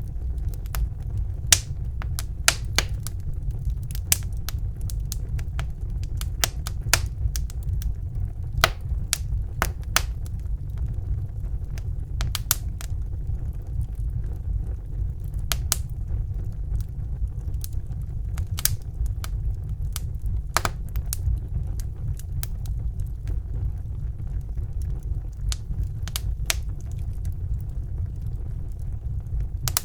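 Wood fire burning in a fireplace: a steady low rumble of the flames with irregular sharp crackles and pops from the burning logs, more frequent in the first half.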